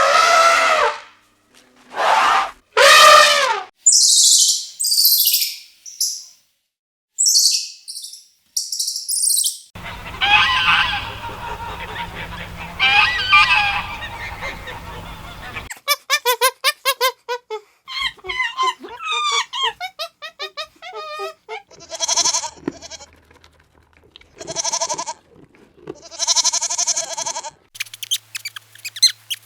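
Farm animal calls, a run of short clips of different animals calling one after another, with the background changing abruptly between clips.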